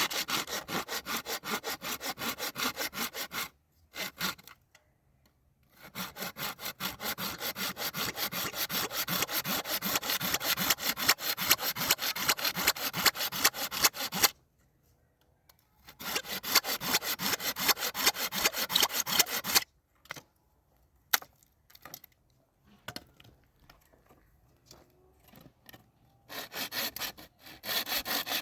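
Sewing machine stitching sheets of plastic bag, a rapid, even clatter in runs of a few seconds: one at the start, a long one after a short pause, another after a second pause, and a last one near the end.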